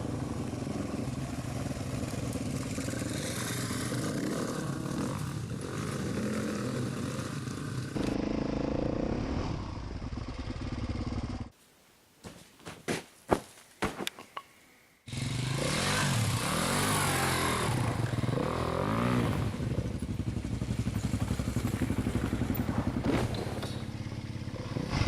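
Motorbike engine running while riding, its note rising and falling with the throttle. A little under halfway through it drops away for a few seconds, leaving only a few knocks and clatter, then the engine sound resumes.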